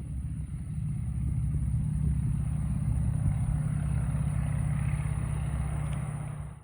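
Spartan Executive's radial piston engine running steadily with its propeller, getting louder after about a second and falling away at the very end.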